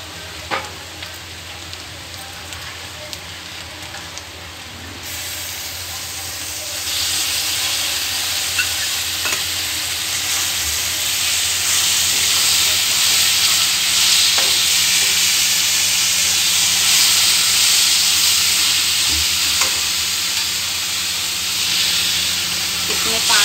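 Onions and spices frying in oil in a steel pan, with a spoon stirring and scraping. About five seconds in, the sizzle grows much louder into a strong, steady hiss as the wet masala paste goes into the hot oil.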